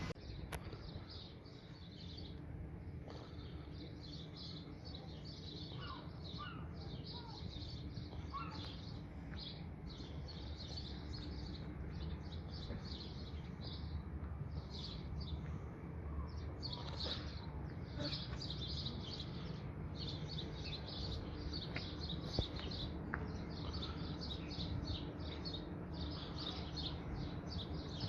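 Small birds chirping and twittering continuously in quick, dense runs, over a low steady background rumble.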